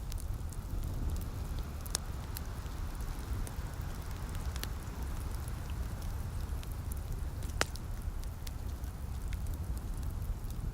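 Wood fire crackling, with scattered sharp pops, the clearest about two and seven and a half seconds in. Under it run a steady hiss of light rain and a low, constant rumble.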